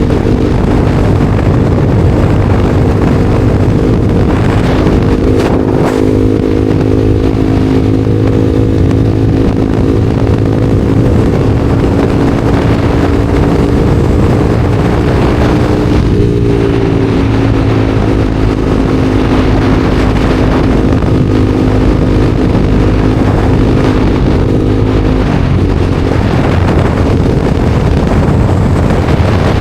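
Honda CBR300R's single-cylinder engine running at a steady cruising speed, its note dipping briefly about sixteen seconds in, with heavy wind rush over the microphone.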